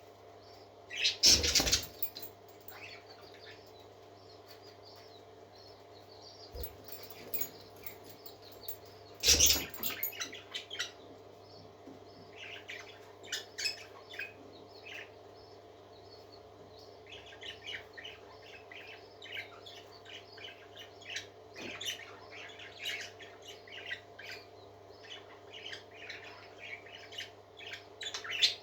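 Pet parakeets chirping and warbling in many short, quick calls, with two loud sudden bursts, about a second in and about nine seconds in, over a steady low hum.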